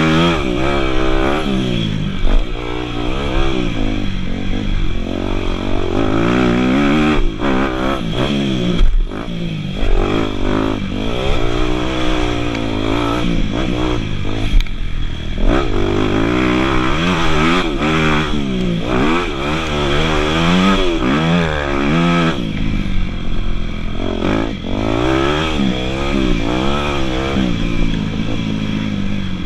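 Dirt bike engines revving, the pitch repeatedly climbing and dropping back as the bikes accelerate, shift and back off.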